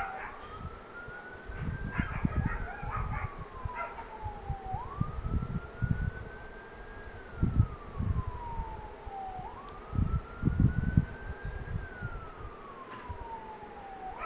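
Emergency vehicle siren on a slow wail, its pitch rising for about two seconds and falling for about two seconds, three times over. Irregular low rumbles underneath are louder than the siren.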